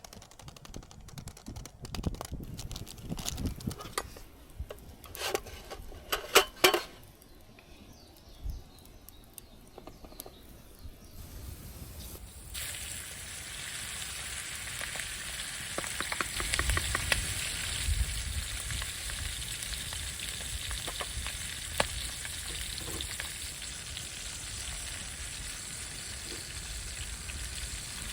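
A few knocks and clatters of cooking gear, then about twelve seconds in food starts frying in a pan with a steady sizzle and small crackles.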